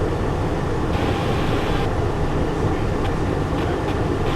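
Steady cockpit noise of a Cessna Citation Encore twin-turbofan jet during its landing: engine and airflow noise heard inside the cockpit, with a low hum underneath.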